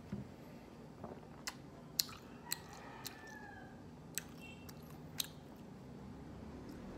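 A plastic soda bottle is set down on the table with a soft thump, then come scattered sharp clicks and mouth sounds of someone chewing close to the microphone.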